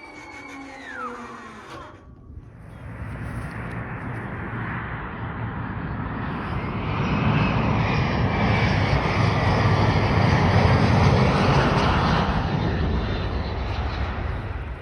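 Airplane engines rushing as the aircraft passes; the noise swells after about two seconds, is loudest about two-thirds of the way through, and eases slightly near the end.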